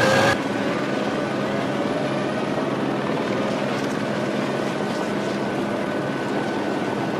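Steady engine drone with a constant high whine and no change in pitch, following a sudden cut away from a close race-car engine.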